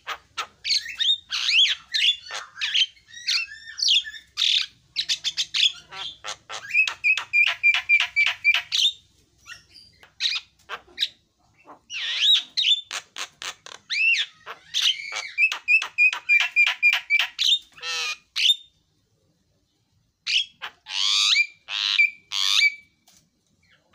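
Javan myna (jalak kebo) singing: a busy stream of harsh squawks, clicks and whistled notes, with runs of rapid repeated notes, breaking off for a couple of seconds near the end before starting again.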